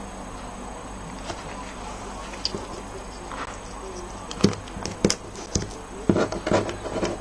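Steady low room hum, then from about four and a half seconds a run of light taps, clicks and small paper rustles from handling die-cut paper snowflakes and a glue bottle on a craft table.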